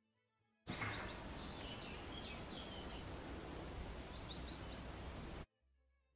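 Outdoor ambience with a low rumble, cutting in about a second in and stopping abruptly near the end, while a small songbird gives three short bursts of high, quick chirps.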